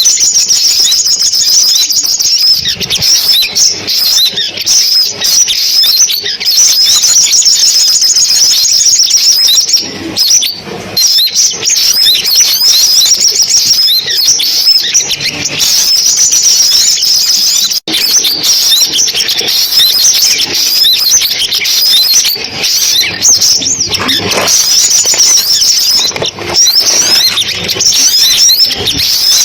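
Sunbirds calling: a dense, continuous stream of fast, high-pitched chirps and trills. The sound cuts out for an instant about eighteen seconds in.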